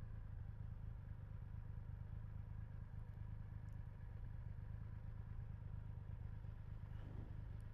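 Triumph Rocket 3 GT's 2,458 cc inline three-cylinder engine idling at a standstill, a faint, steady low hum.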